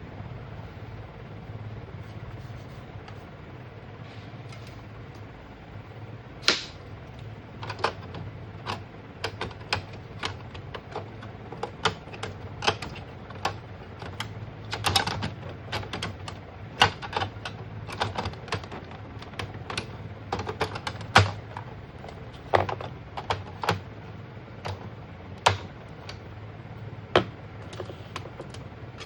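Irregular sharp clicks and taps, a few a second at most, starting about six seconds in, over a steady low hum: parts and tools being handled while an Epson ink-tank printer is worked on.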